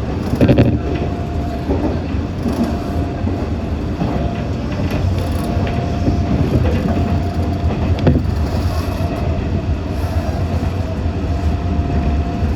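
Meitetsu 6500 series electric train running, heard from inside the car: a steady low rumble of wheels and running gear, with a thin steady tone that comes and goes. A few sharp knocks from the track, the clearest about two-thirds of the way through.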